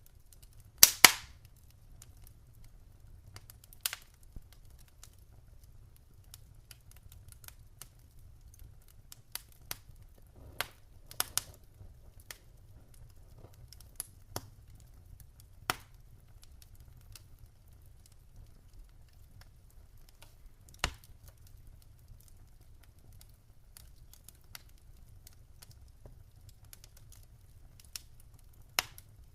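Wood fire crackling in a fireplace: irregular, scattered sharp pops over a low steady rumble, the loudest a quick double pop about a second in.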